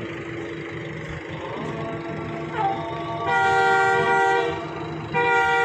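Bus multi-tone air horn sounding two long chord blasts, the first about three seconds in and the second starting near the end. A steady hum runs underneath.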